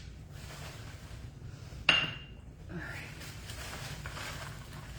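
Dishes being handled while the kitchen is cleaned up: one sharp clink about two seconds in that rings briefly, over quiet handling noise.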